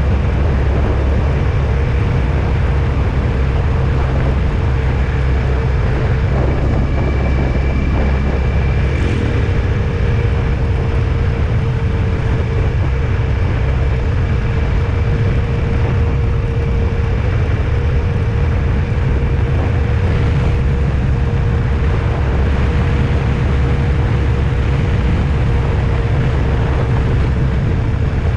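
Vehicle travelling on a road: a steady, loud low rumble of road and engine noise with a faint constant hum.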